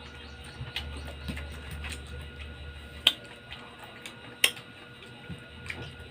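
Mouth sounds of eating mango with shrimp paste: scattered crisp clicks of biting and chewing, with two sharp, much louder clicks about three and four and a half seconds in, over a steady low hum.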